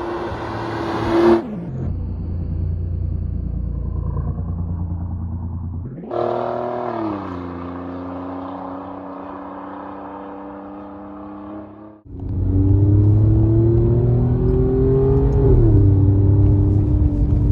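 Alfa Romeo Giulia Quadrifoglio's twin-turbo V6 on the move, its exhaust note shifting as it goes through the gears. The pitch falls sharply about a second in, settles into a steady lower drone, then climbs again. About twelve seconds in it turns loudest and rises under acceleration before dropping suddenly, as at an upshift.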